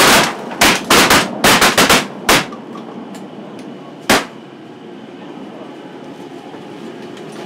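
A rapid volley of shotgun shots from several duck hunters firing at incoming ducks: about eight shots close together in the first two and a half seconds, then one last shot about four seconds in.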